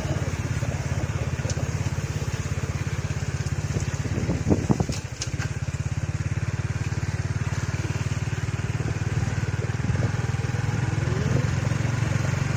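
Motorcycle engine running steadily while riding, with a brief louder thump a little before halfway through.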